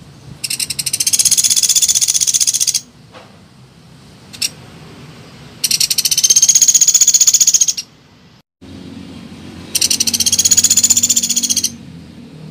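Woodpecker (pelatuk beras) rattling call used as a trapping lure: three dry, rapid trills of about two seconds each, with short gaps between them.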